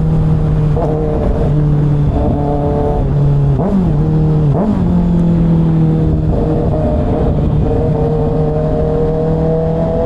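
Kawasaki ZX-6R's inline-four engine running at steady revs at freeway speed, with two brief rises in revs about three and a half and four and a half seconds in, over a heavy rush of wind.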